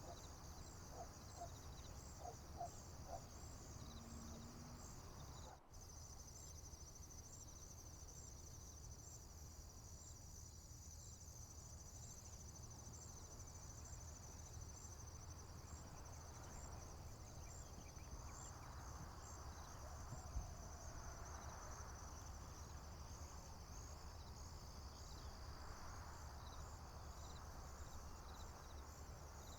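Crickets chirping in a steady, high-pitched pulsing chorus over a faint low rumble. A few short, faint calls come in the first few seconds.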